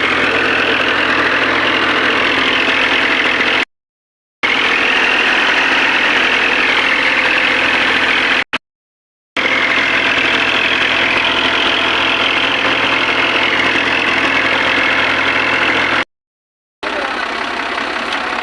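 Tractor diesel engine running steadily. The sound drops out abruptly three times, each gap under a second.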